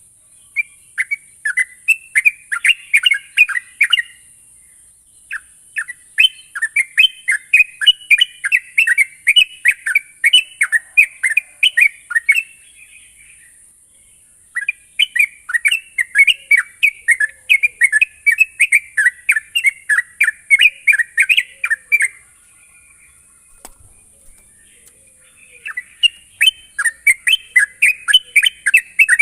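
Yellow-vented bulbul (trucukan) singing in long, rapid runs of bubbly chirps, the fast continuous song bird keepers call ngropel. The runs last several seconds each, with short pauses between, over a steady high hiss.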